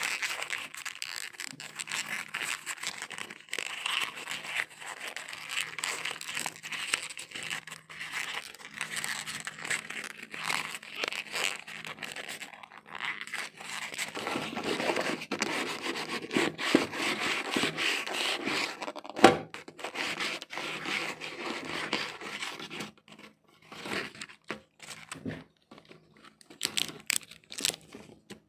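Crinkling, rustling and scraping of hands working on a laptop and its parts, full of small clicks, with one sharper snap about two-thirds of the way through.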